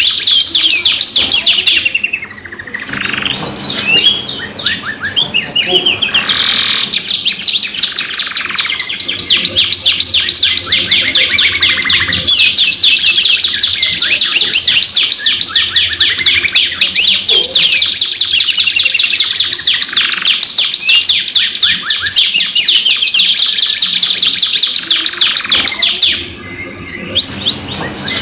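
Domestic canaries singing long rapid trills and rolls, many notes a second, almost without a break, with short pauses about two seconds in and near the end.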